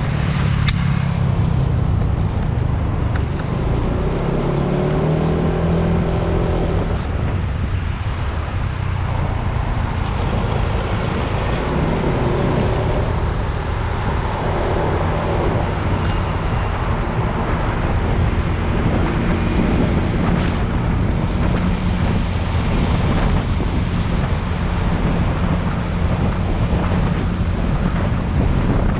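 Motorcycle engine running under way, with wind noise on the microphone; the engine note rises and falls several times.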